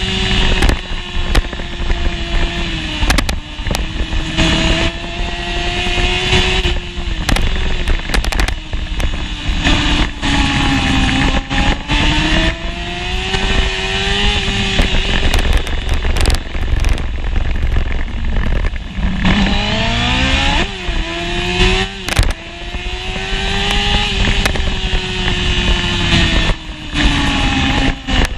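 Honda CBR600F1 inline-four engine heard from onboard the bike, its revs rising and falling through the gears against a constant rush of wind, with one quick climb in revs about twenty seconds in.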